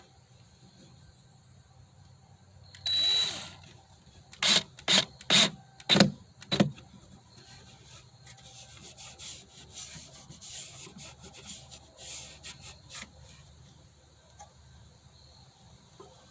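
Hand-tool work on wood: a burst of about a second, then five short, loud strokes about half a second apart, followed by softer, irregular scraping and rubbing.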